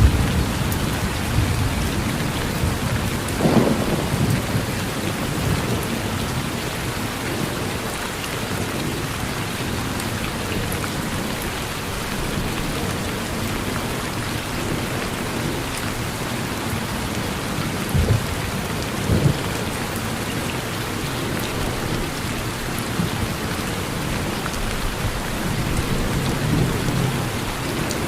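Steady rain falling on a porch, with low rolls of distant thunder beneath it; a short crack of thunder comes a few seconds in, two more near the middle, and a stronger rumble builds near the end.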